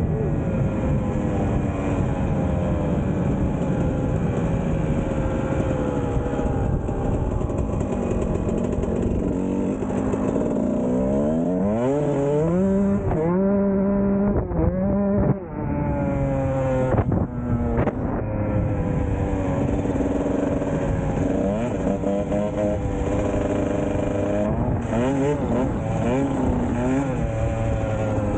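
Kawasaki KX125 single-cylinder 125 cc two-stroke dirt bike engine being ridden, revving up and dropping back again and again as the throttle is worked, with several sharp rising revs. The fuel mix had been cut with extra straight gas, and the rider thought it sounded a little lean, with no smoke from the exhaust.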